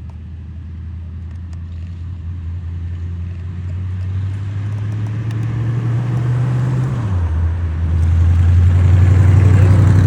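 A car's engine running at low revs, growing steadily louder as the car draws closer; its note drops slightly about seven seconds in.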